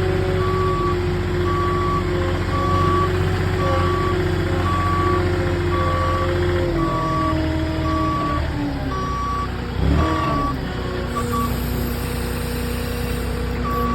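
Truck backup alarm beeping about once a second over the truck's engine running, which shifts in pitch about seven seconds in. The beeping stops about eleven seconds in, just after a brief louder noise.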